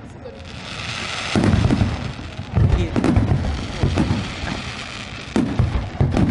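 Fireworks going off: a hiss, then clusters of bangs and crackling about a second and a half in, around three seconds in, and again near the end.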